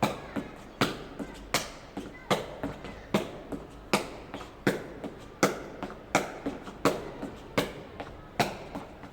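Jegi (Korean shuttlecock) kicked over and over: a sharp tap about every three-quarters of a second, with lighter taps between.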